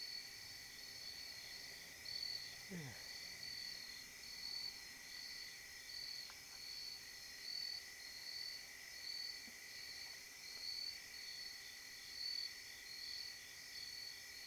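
Night insects chirring steadily outdoors, one high chorus pulsing in an even slow rhythm over a steady lower drone. A faint short falling sound comes about three seconds in.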